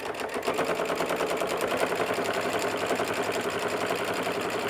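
Sewing machine running at a steady speed, top stitching the edges of a layered cotton-and-batting pouch: a fast, even run of needle strokes.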